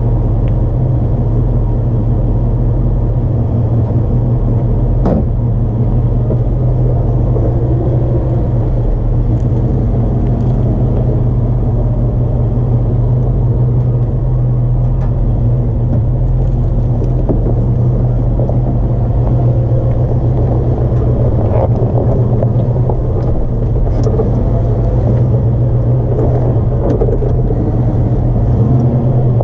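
Jeep WJ Grand Cherokee engine running at low speed as it crawls over a rough off-road trail: a steady low drone, with a few brief sharp knocks from the rough going.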